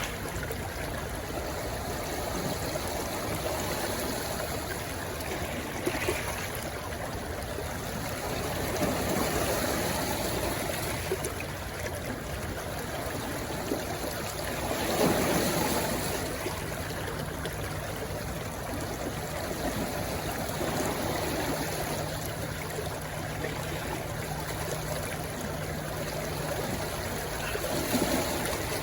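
A rushing stream running steadily, with louder surges about halfway through and again near the end. A faint low steady hum comes in just after halfway.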